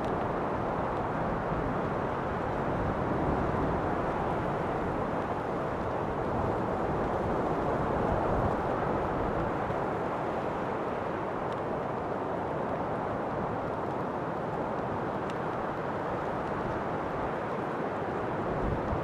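Steady wind, a low, even rushing that swells and eases slightly.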